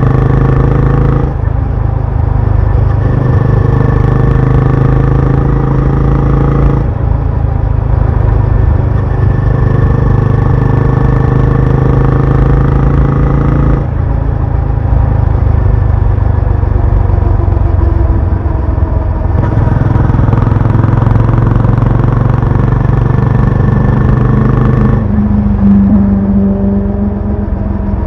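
Benelli Imperiale 400's single-cylinder engine exhaust while riding, running steadily, its note changing several times as the revs shift and dropping to a lower, steadier tone near the end.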